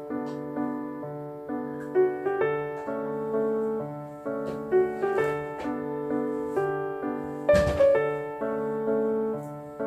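Gentle background piano music playing chords. A brief noise comes through about seven and a half seconds in.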